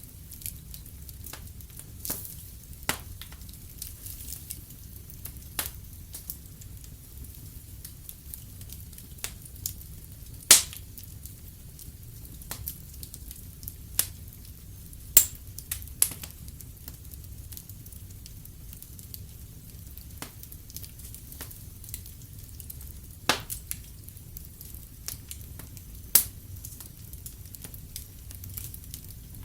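Wood fire crackling in a fireplace: irregular sharp pops and snaps over a low steady rumble, with a few much louder pops, the loudest about ten, fifteen and twenty-six seconds in.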